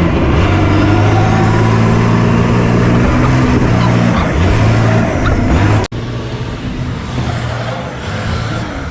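Swapped-in Cummins diesel engine of a monster truck running loud and steady. About six seconds in the sound cuts off abruptly and comes back quieter and rougher.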